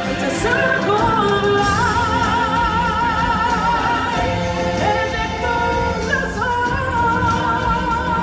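Live show music: several singers holding long notes with vibrato in harmony over the band, with new voices coming in near the start and again about six seconds in.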